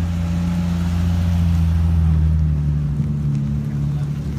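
Car engines and exhausts running as cars drive slowly past, a steady low drone that swells to its loudest about two seconds in.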